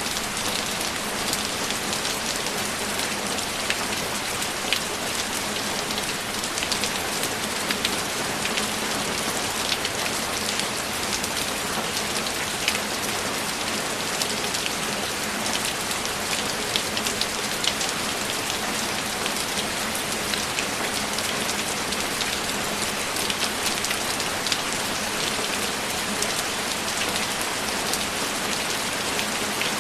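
Steady heavy rain, an even hiss with many close raindrops ticking sharply through it.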